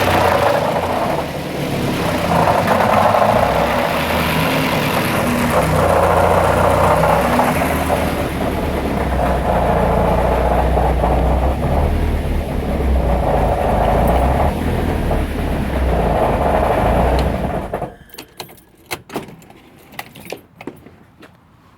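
Car engine running with a knocking noise that the owner suspects is rod knock, its level rising and falling several times; it is shut off about eighteen seconds in, and a few sharp clicks follow.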